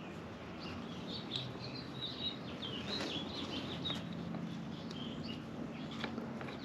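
Small birds chirping repeatedly over a faint, steady low background hum.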